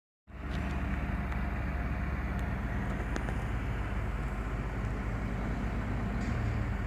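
A truck's engine running steadily, a low rumble with no change in pace.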